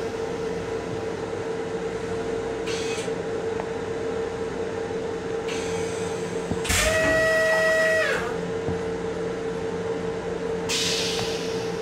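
Steady hum of an M7 electric railcar running, heard from inside its restroom, with short bursts of air hiss. About seven seconds in, a loud steady two-note tone sounds for just over a second, dipping slightly in pitch as it stops.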